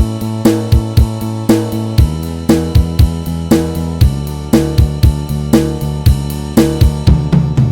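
Band backing track with the guitar part removed: a drum kit keeps a steady beat of kick, snare and hi-hat strikes over sustained low accompanying notes.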